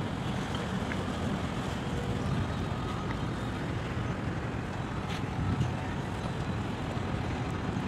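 A steady low engine rumble with a constant wash of wind and outdoor noise.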